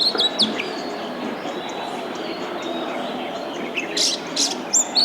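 Oriental magpie-robin singing: a quick run of clear whistled notes at the start, a pause, then a few sharp notes about four seconds in leading into another fast run of whistles near the end, over a steady low background hum.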